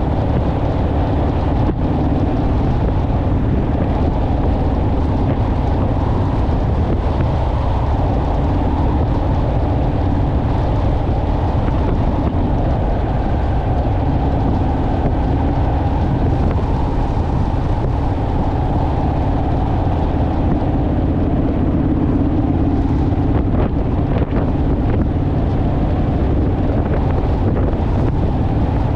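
Honda Rebel parallel-twin motorcycle engine running steadily at cruising speed, with wind rushing over the microphone.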